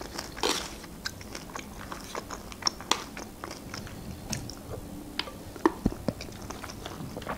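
Close-up chewing of a mouthful of food, with small scattered wet mouth clicks.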